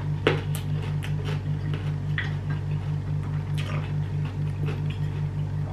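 Close-miked eating sounds: scattered short smacks and clicks of chewing and of fingers picking up rice from a plate, over a steady low hum that pulses a few times a second.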